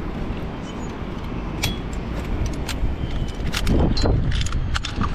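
Wind buffeting the microphone, with repeated sharp metallic clinks of rope-access hardware (carabiners and descender on the harness), some of them ringing briefly, thickest from about a second and a half in.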